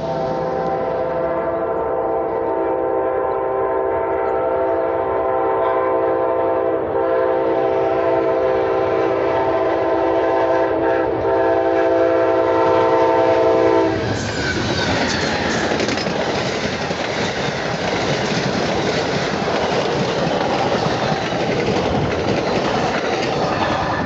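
Amtrak locomotive horn sounding a long, steady chord for a grade crossing, with a couple of brief breaks, for about fourteen seconds. It then stops, and the passenger train passes close by with a loud rush of wheels clattering over the rails.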